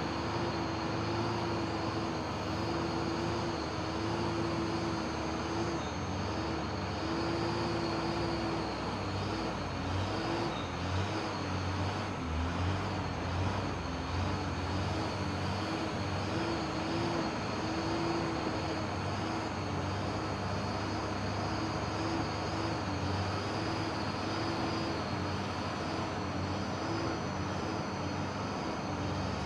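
Heavy truck's diesel engine running steadily under load on a slippery uphill climb, its pitch wavering slightly.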